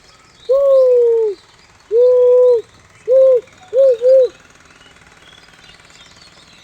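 A bird's low, clear hooting calls: five notes, the first two long and the first falling off at its end, then three short ones, the last two close together.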